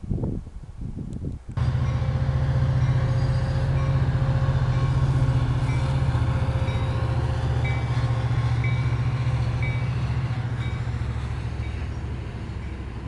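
Passenger train led by an EMD F59PHI diesel-electric locomotive passing close: the loud, steady low drone of its engine comes in suddenly about a second and a half in and slowly fades near the end.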